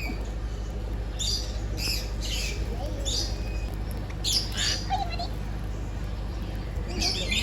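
Birds squawking: a run of short, harsh calls roughly every half second through the first half, then a gap, with more calls near the end.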